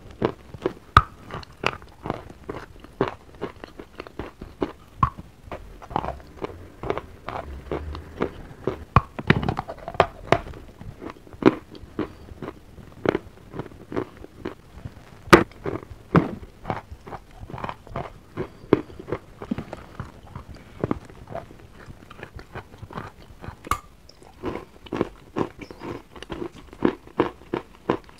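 A person biting and chewing wet chalk: soft, slushy crunches, two or three a second, with a few louder bites among them.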